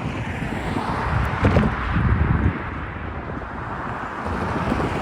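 Intermodal freight train cars rolling past at speed, steel wheels clattering and rumbling over the rails, heaviest about a second and a half to two and a half seconds in, with wind buffeting the microphone.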